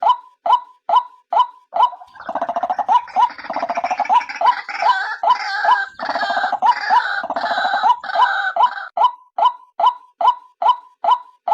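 Female white-breasted waterhen calling: a steady series of sharp, hooked 'kwak' notes, about two to three a second. About two seconds in they give way to some seven seconds of denser, gurgling, grating calling with overlapping notes, and then the steady notes resume.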